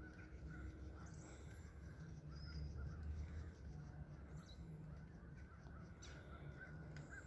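Several wild birds calling, with short chirps and brief high sweeps scattered throughout, over a low rumble.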